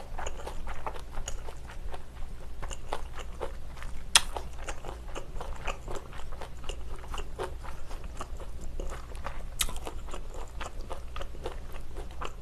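Close-miked chewing and biting of thick Chinese glass noodles in spicy stir-fried pork, a run of small mouth clicks. A sharp click about four seconds in and another near ten seconds stand out.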